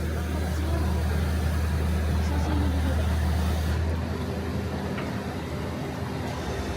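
Motor vehicle running, a steady low engine hum with road noise that drops and changes about four seconds in.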